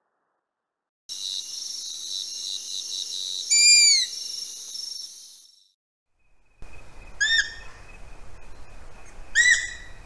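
Owl calls played from field recordings: first a single loud arched, falling call over a high background hiss. Then, after a short gap, a Stygian Owl gives two short arched calls about two seconds apart over a thin steady tone.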